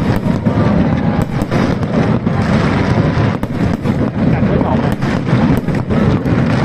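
New Year fireworks display going off: a steady low rumble of overlapping bursts, cut through by many sharp pops and crackles.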